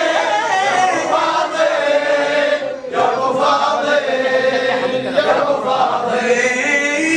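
A chorus of men chanting a Shia lament (latmiya) in unison, long drawn-out sung phrases with a short break about three seconds in.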